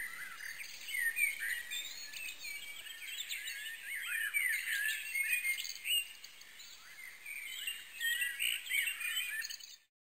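Several birds chirping and singing together, many short rising and falling calls overlapping. The sound starts and cuts off abruptly.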